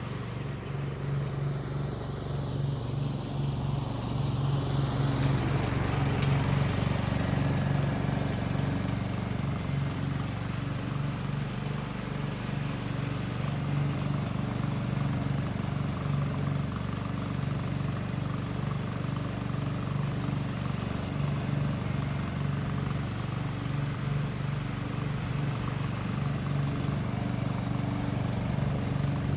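Husqvarna Rider 13 ride-on mower's petrol engine running steadily with an even low throb, a little louder from about five seconds in.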